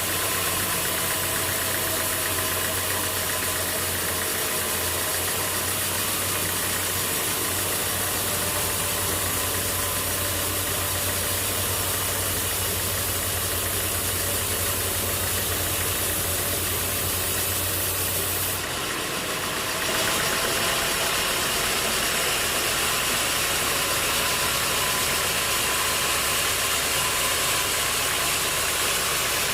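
Sawmill machinery running steadily, a constant engine-like hum and noise. About two-thirds of the way through the sound changes abruptly: the low hum drops out and the noise shifts.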